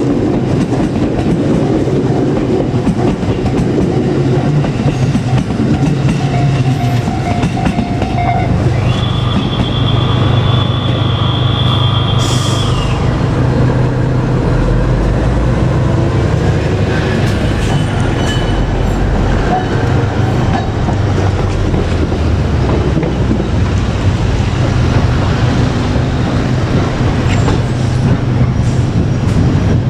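Electric train running past at close range: a steady loud rumble of wheels on rail with clickety-clack over the rail joints. A high steady tone sounds for a few seconds about nine seconds in and ends with a short hiss.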